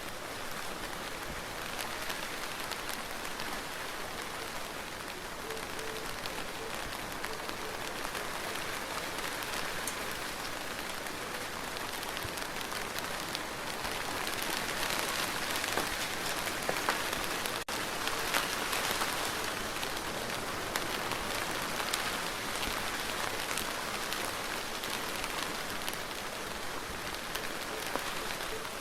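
Steady rain falling, a dense even hiss with fine scattered drop ticks, swelling a little in the middle.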